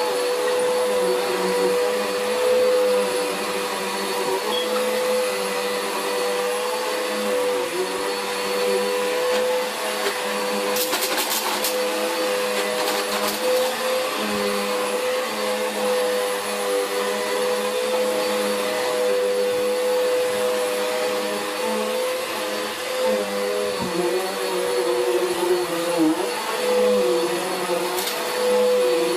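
Vacuum cleaner motor running steadily with a constant whine over its rushing air noise. A short cluster of clicks comes about eleven seconds in.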